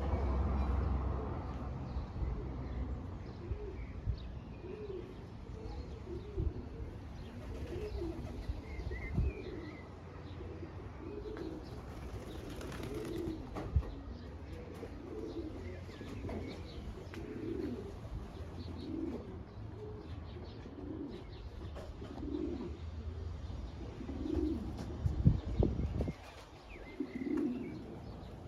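Racing pigeons cooing: short low coos that rise and fall, repeated about once a second, with a few sharp taps among them.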